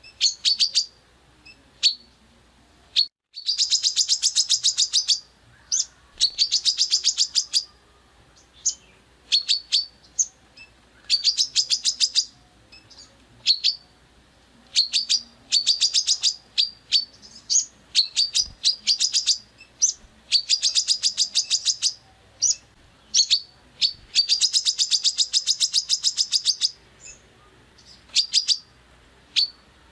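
A songbird giving rough, rapid-fire 'tembakan' calls: fast trilled bursts of sharp high notes, each lasting a second or two, separated by short pauses and single notes, repeated throughout.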